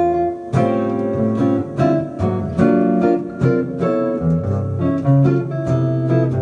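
Jazz guitar playing chords with a walking bass line underneath, in a steady swinging rhythm.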